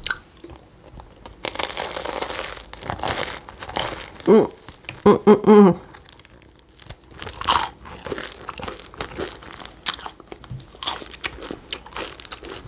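Close-up eating sounds: a flaky meat-filled samsa being bitten and chewed, with crunching and crackling of the pastry and a longer crackly stretch a couple of seconds in. Two short hums from the eater come about four and five seconds in.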